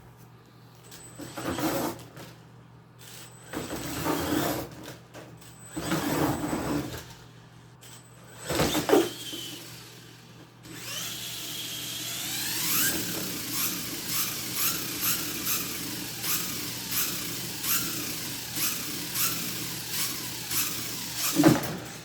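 Venom Mini Giant RC monster truck's brushless electric motor running in short throttle bursts. About eleven seconds in it spins up with a rising whine into a longer run that pulses about every half second.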